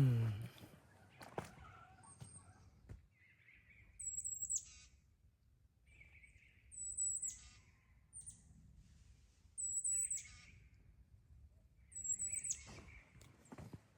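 A songbird singing the same short phrase four times, roughly every two and a half to three seconds: a high chirp that drops into a trill with a lower buzzy note. At the very start a short, louder pitched sound slides down in pitch.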